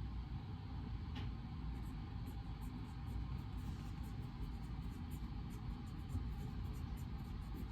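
Reading-room background ambience: a steady low rumble with faint, scattered light ticks and a small tap about a second in.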